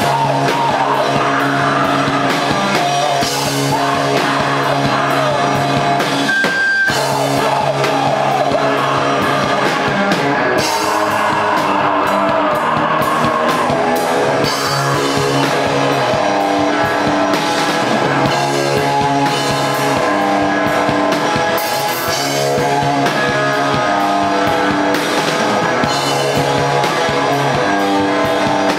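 Rock band playing live: electric guitars and drum kit with a voice singing over them.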